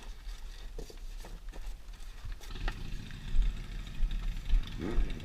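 A small engine running steadily, coming in about halfway through and getting louder, over low rumbling and bumping on the microphone.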